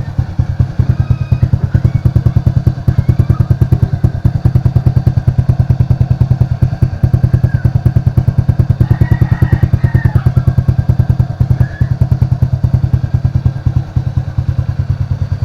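Honda RS125 Fi single-cylinder four-stroke engine idling steadily through an aftermarket stainless power-pipe exhaust with a silencer fitted, giving an even, rapid run of exhaust pulses.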